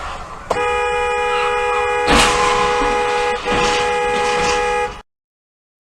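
A vehicle horn sounding one long steady blast from about half a second in, broken briefly at about three and a half seconds, with a loud impact about two seconds in. The sound cuts off abruptly about a second before the end.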